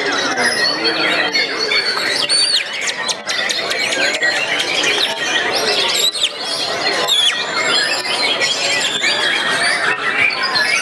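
Murai songbird singing a fast, unbroken jumble of whistles, squeaks and chattering notes.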